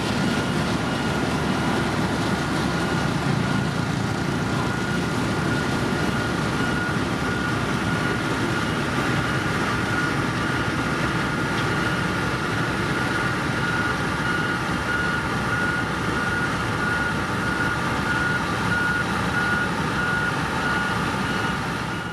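Heavy road-construction machine's engine running steadily at work, with its high-pitched reversing alarm sounding throughout, as evenly spaced beeps in the second half.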